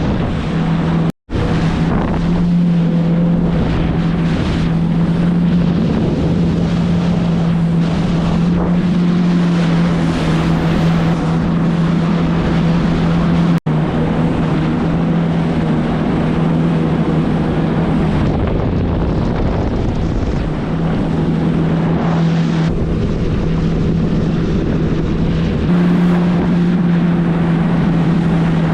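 Jet ski's four-stroke engine running steadily under way on a 2018 Yamaha FX HO, with wind buffeting the microphone and water rushing past. The sound cuts out for an instant twice, about a second in and around the middle, and the engine note steps up slightly near the end.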